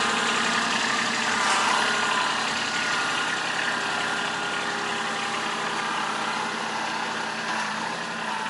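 Small loader tractor's engine running steadily at idle, slowly growing fainter.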